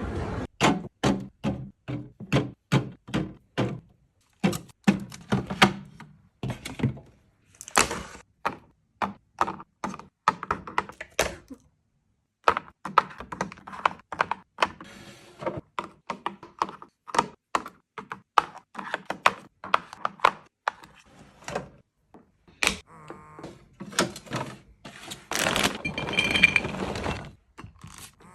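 Items being handled and set down, giving a long series of sharp knocks and taps at about two a second, with a denser rustling, clattering stretch near the end.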